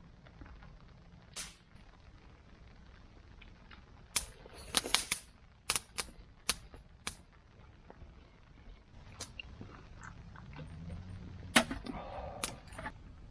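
A series of sharp, irregular snaps and cracks, about a dozen, bunched in two clusters with the loudest crack near the end.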